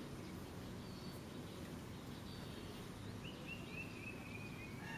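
Faint steady background noise with a bird chirping faintly, a run of short falling notes, in the last couple of seconds.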